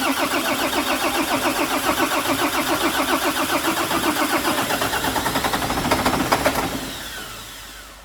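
Volvo FH13 truck's 13-litre six-cylinder diesel being cranked on the starter without catching: a rhythmic chugging, about five pulses a second, that stops after about seven seconds. It does not fire because the fuel filter is empty and the fuel system needs priming.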